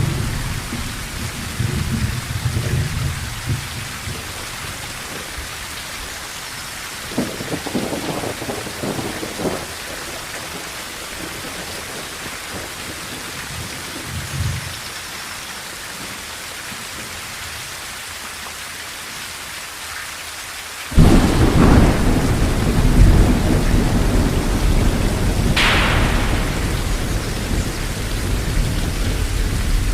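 Steady rain on a tin roof with thunder. Low rumbles come in the first few seconds and again around eight seconds in. About 21 seconds in a sudden loud thunderclap breaks and keeps rumbling, with a sharp crack near 26 seconds.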